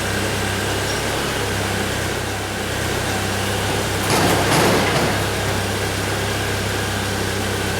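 A steady low mechanical hum with a brief rushing noise about four seconds in.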